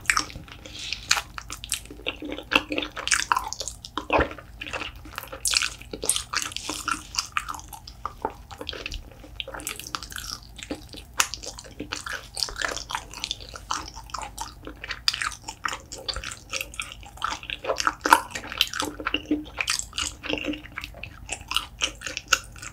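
Wet, close-up chewing and mouth smacking of chewy, gelatinous spicy braised beef foot, a steady run of irregular quick clicks and squelches.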